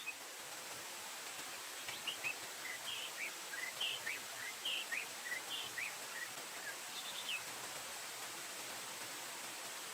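A bird calling a quick series of short chirps for about five seconds, starting about two seconds in, over a steady hiss of background noise.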